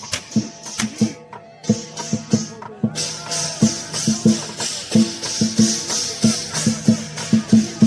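Lion dance percussion: a big drum beating a quick, uneven rhythm, joined about three seconds in by cymbals clashing without pause.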